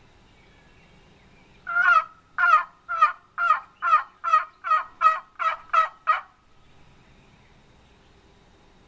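Wooden turkey box call worked close by in a regular series of about eleven loud, rasping notes, two to three a second, imitating a wild turkey to make a gobbler answer.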